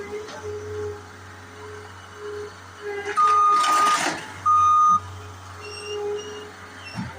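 Skid steer engine running with its backup alarm sounding two loud beeps, a long one and a shorter one, a few seconds in, while a short burst of crunching noise from the demolition overlaps the first beep.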